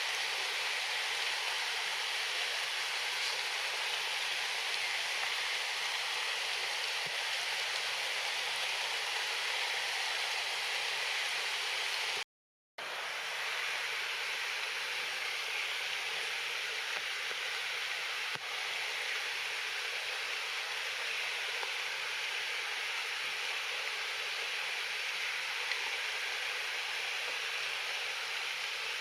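Steady rain falling, an even hiss with no break in level except a half-second gap of silence about twelve seconds in.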